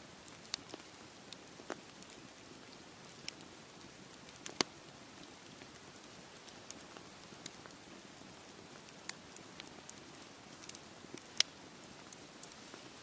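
Wood campfire crackling, with sharp pops at irregular times (the loudest about four and a half and eleven seconds in) over a steady wash of sea waves.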